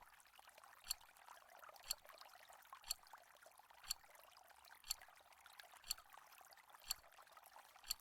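Quiz countdown timer sound effect: a faint, sharp clock tick about once a second, nine ticks in all, over a faint steady hiss.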